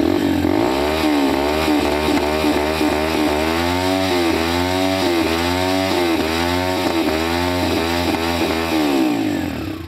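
Yamaha TT-R dirt bike's single-cylinder four-stroke engine running and being revved in repeated blips, the pitch rising and falling about every half second.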